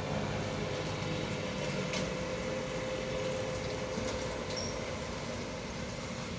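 Heavy trucks running down a grade: a steady rumble of engine and road noise with a thin, steady whine running through it.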